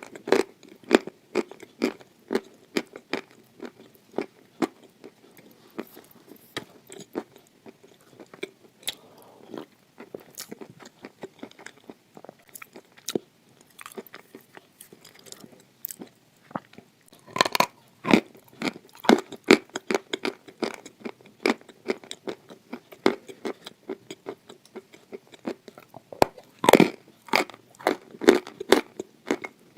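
Hard red edible clay (khawa clay) being bitten and chewed close up: a steady run of crisp crunches and clicks, thickening into louder bursts of crunching about 17 seconds in and again about 27 seconds in.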